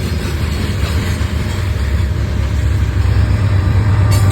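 Mid-train distributed-power (DPU) diesel locomotive on a long freight train approaching and passing, its engine a low steady rumble that grows louder near the end.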